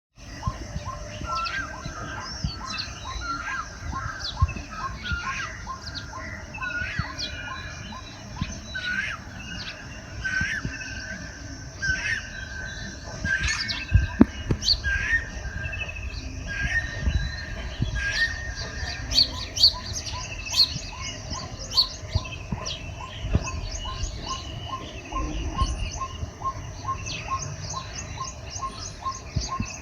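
Baya weavers chattering and calling in a busy chorus of many overlapping chirps and short whistles. A steady pip repeats about twice a second behind them, over a low rumble.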